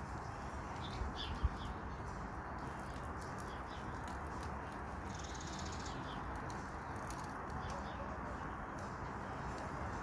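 Outdoor ambience: a steady background hiss with scattered faint bird chirps, and a single dull thump about a second and a half in.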